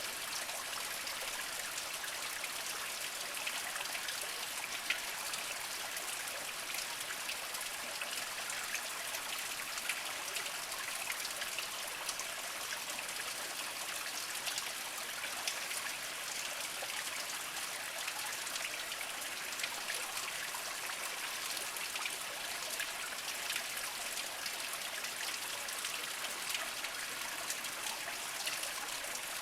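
Small spring trickling over mossy rocks: a steady, even water sound with many small splashes and drips scattered through it.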